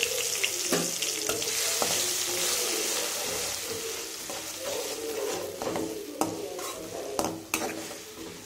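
Ginger-garlic paste sizzling in hot oil in an aluminium kadai while a metal spatula stirs it, scraping and tapping against the pan. The sizzle is strongest at first and dies down after about three seconds, and a few sharp spatula taps come near the end.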